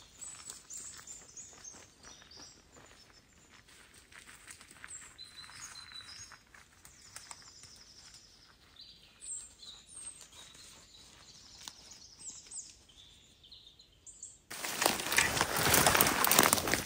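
Several songbirds chirping and calling in a wet forest: short, high calls scattered through a quiet background. Near the end a sudden loud rustling takes over.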